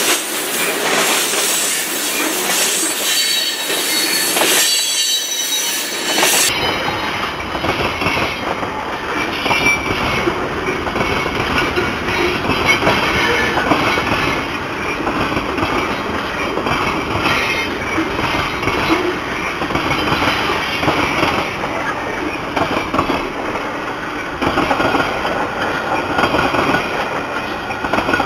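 Freight cars of a long train rolling past close by, wheels clacking over the rail and squealing on the curve, with high squeal tones strongest in the first several seconds.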